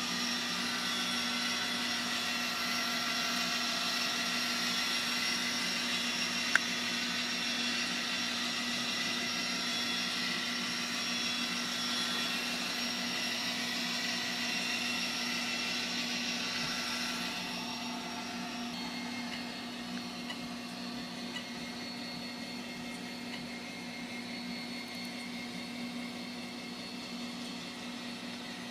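EMD GP60 diesel locomotive sound played by an N scale model's DCC sound decoder through its tiny speaker, a steady engine drone with a thin, buzzy tone. About two-thirds of the way through it drops quieter and changes tone, as if the throttle notches down. There is a single sharp click early on.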